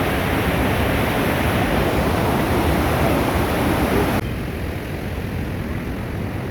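Waterfall rushing: a loud, steady rush of falling water. About four seconds in it cuts abruptly to a quieter, duller rush.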